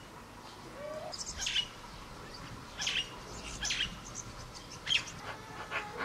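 Birds calling in a fruiting mulberry tree: four or five short bursts of harsh, scratchy chirps spread across a few seconds.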